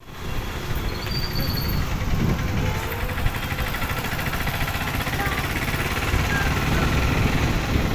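Outdoor evening ambience: a continuous low rumble with faint, scattered bird chirps above it.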